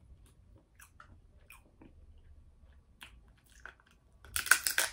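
A person eating seafood close to the microphone: faint wet chewing clicks, then a louder bite about four and a half seconds in.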